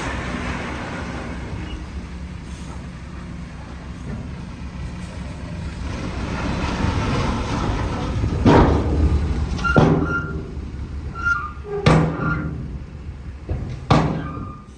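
Heavy diesel earthmoving machinery running steadily. About halfway through, four sharp loud knocks come a second or two apart.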